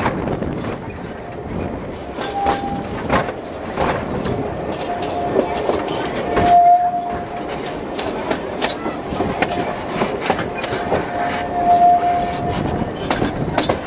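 Narrow-gauge train hauled by the Px48 steam locomotive rolling along: a steady rumble with irregular clicks of the wheels over the rail joints. A thin high squeal comes and goes over it, briefly early, then longer in the second half.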